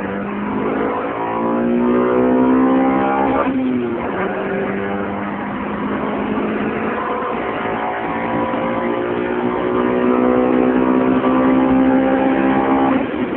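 Honda Civic VTi's VTEC four-cylinder engine accelerating hard, its revs climbing toward the high range where VTEC engages. There is a quick dip in revs at a gear change about three and a half seconds in, then a long, steady pull up through the next gear. The revs fall away at the very end.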